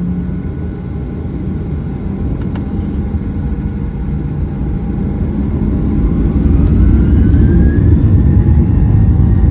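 Boeing 737-900ER's CFM56-7B jet engines heard from inside the cabin: a steady low rumble under a whine that rises in pitch, the whole getting louder about six seconds in as the engines spool up.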